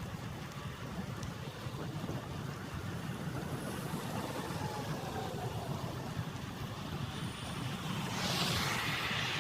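Steady rumble and hiss of road traffic, swelling louder with a hiss about eight seconds in.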